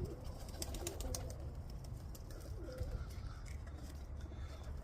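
Pigeons cooing softly, a few short low calls over a steady low rumble.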